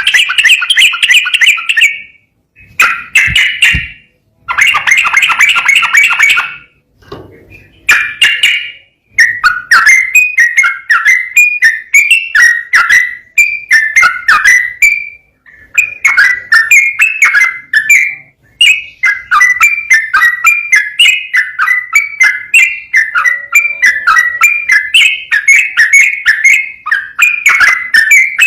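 Yellow-vented bulbul (trucukan) singing loudly in rapid, warbling chattered phrases. The song comes in short bursts with brief pauses at first, then runs almost unbroken from about nine seconds in.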